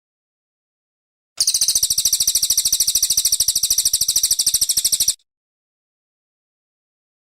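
Brown cililin song: one fast, high trill of evenly repeated notes, about a dozen a second. It starts about a second and a half in, lasts nearly four seconds, and stops abruptly, with dead silence on either side as in a looped masteran recording used to train songbirds.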